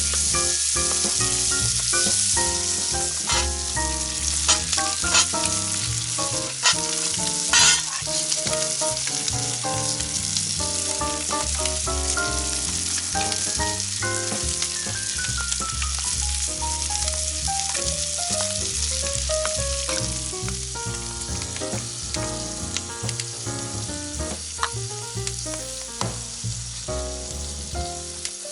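Food frying and sizzling, a steady hiss with a few sharp pops in the first several seconds, over background music.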